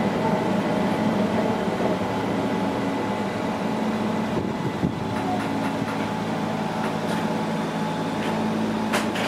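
Keihan Keishin Line electric train heard from inside the front car as it pulls out of a station and gathers speed: a steady running hum of motors and wheels on rail, with a faint falling whine about halfway and a couple of sharp clicks near the end.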